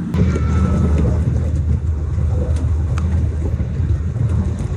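Engine of a Colombian chiva bus running under way: a steady low rumble.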